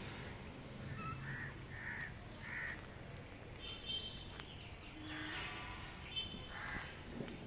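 Birds calling: a run of three short calls about a second in, followed by more scattered calls.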